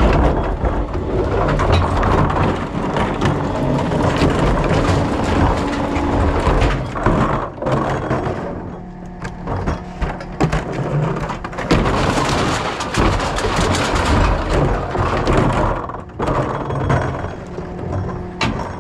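Rear-loader recycling truck at work: loud crunching, cracking and clattering of recyclables over the low running of the truck's engine, with many sharp knocks throughout.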